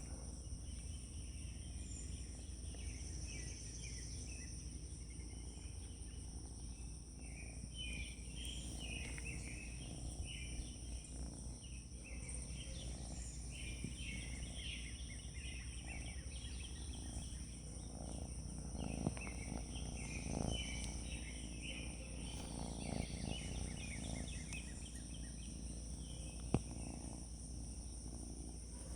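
Steady high insect droning, like crickets, with birds twittering and chirping through it.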